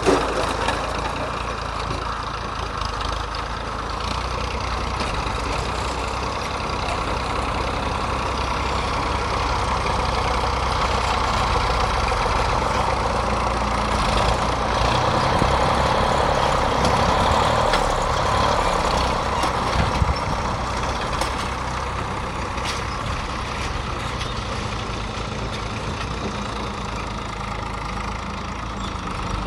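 Massey Ferguson tractor's diesel engine running steadily, growing somewhat louder through the middle, with a single sharp click about two-thirds of the way through.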